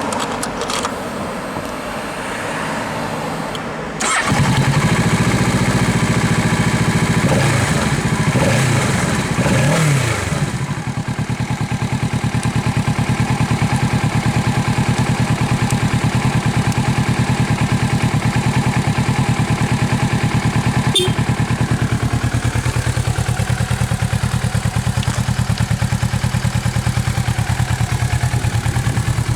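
Kawasaki Ninja 650's parallel-twin engine breathing through a Trick Star Ikazuchi aftermarket exhaust, starting up. The starter cranks for about four seconds before the engine catches and runs loud, is revved a few times, then settles into a steady, even idle.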